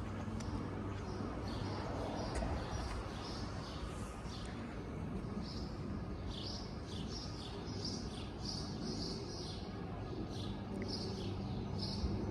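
Small birds chirping, many short high chirps in quick succession, busiest in the second half, over a steady low hum.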